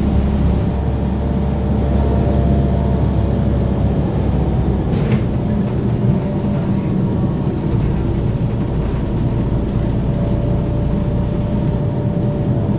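Running noise inside a BKM-32102 trolleybus on the move: a steady low road rumble with a thin, steady whine, and one sharp click about five seconds in.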